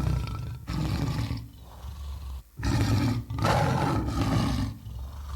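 Tiger roars played as a sound effect: a run of long, loud roars with short breaks between them.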